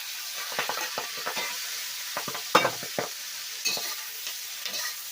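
Chinese broccoli sizzling in hot oil on high heat, with a steady hiss, while a spatula stirs it with repeated scrapes and clinks against the pan; the sharpest clink comes about two and a half seconds in.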